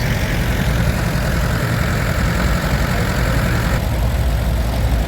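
Vintage tractor engines idling, a steady low rumble; a higher-pitched part of the noise cuts off about four seconds in.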